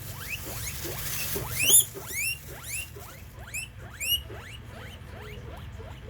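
Mice squeaking: a run of short, quickly rising squeaks, several a second, loudest a little under two seconds in and again at about four seconds, then dying away.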